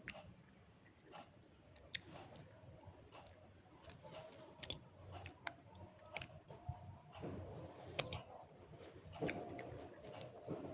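A person chewing slate pencil and multani mitti (Fuller's earth clay), with sharp crunches every so often, the loudest about eight seconds in.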